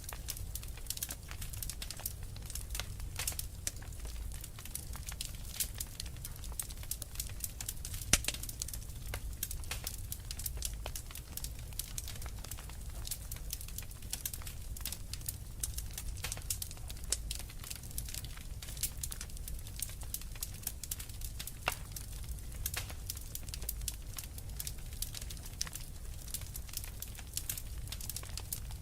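Wood fire crackling in a fireplace: dense, irregular pops and snaps over a steady low rumble of flame, with one sharper pop about eight seconds in.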